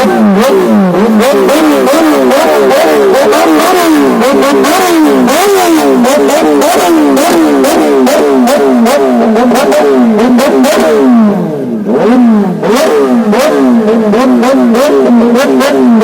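Kawasaki ZX-10R's inline-four engine, very loud through its exhaust, revved in quick repeated blips, its pitch rising and falling about twice a second, with sharp crackles from the exhaust. The revving briefly drops back about three-quarters of the way through.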